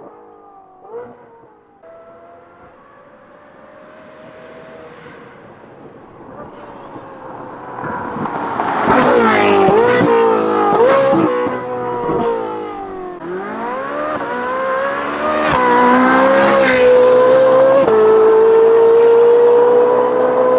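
Ferrari 458's naturally aspirated 4.5-litre V8 breathing through a titanium valved exhaust and free-flow catless front pipes, growing louder as it accelerates hard. The revs climb and drop with several quick upshifts, then climb again and hold a steady high note near the end.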